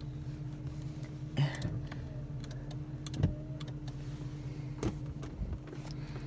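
Steady low hum of a car cabin with the engine idling, broken by a few sharp clicks and knocks from the interior controls being worked.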